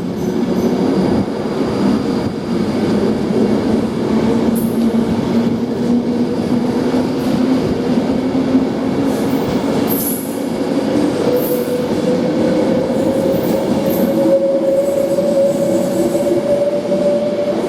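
Avanti West Coast Class 390 Pendolino electric train pulling away from the platform, its traction motors whining in two steady tones that rise slowly in pitch as it gathers speed, over the noise of its wheels on the rails.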